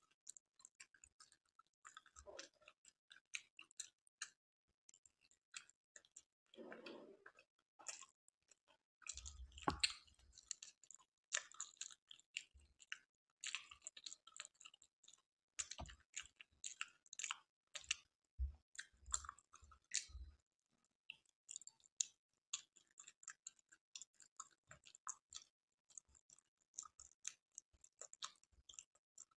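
Close-miked chewing of a soft kala jamun (fried milk-dough sweet in syrup): many small, irregular mouth clicks, faint overall.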